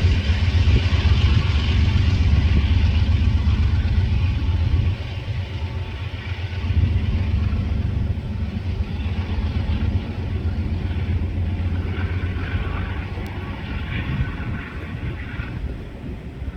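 Freight train rolling past at speed: a heavy low rumble with a hiss of wheel and rail noise, easing after about five seconds.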